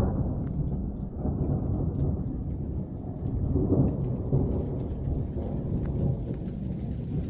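Thunder in one continuous rolling roar from many distant lightning strikes, swelling and fading without a break. Rain is falling, with scattered drop ticks.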